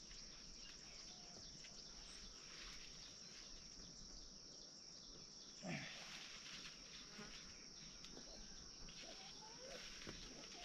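Faint, steady, high-pitched chirring of insects, with a brief faint sound about halfway through and a few faint rising and falling calls near the end.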